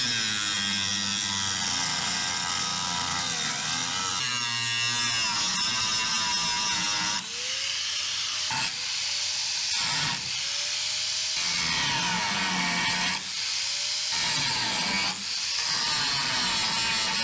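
Electric grinder grinding down an aluminum weld bead, steady for the first half. In the second half it is lifted off and pressed back on about every second and a half, the motor climbing back up in pitch each time it comes off the metal.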